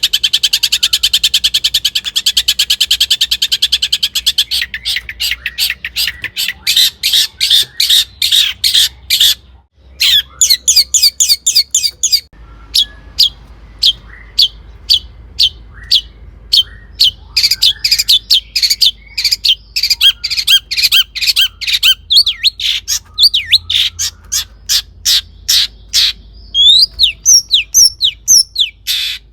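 Long-tailed shrike singing loudly. It opens with a very rapid, dense harsh chatter, then gives long runs of sharp repeated notes, breaking off briefly just before ten seconds. Near the end come short downslurred whistles.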